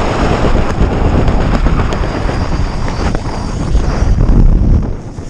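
Heavy wind rushing and buffeting on the microphone during a tandem skydive, a dense steady rush that eases slightly near the end.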